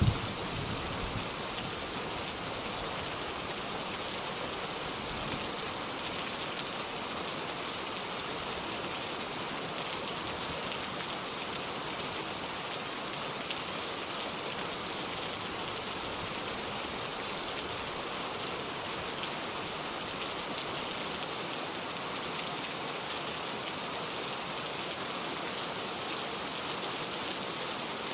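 Steady, dense rain falling, an even hiss of many drops. A low rumble fades out in the first second or two.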